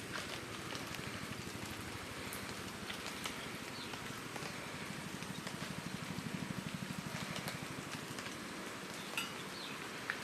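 Steady rain with scattered drop ticks. A soft, fast pulsing low sound rises and fades in the middle.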